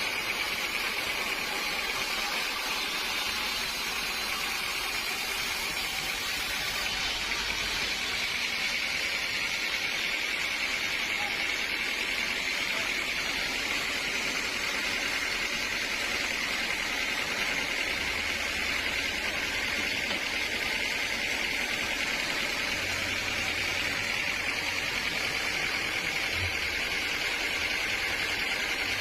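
Sawmill machinery running steadily: a continuous even mechanical noise with a constant high hiss, unbroken throughout.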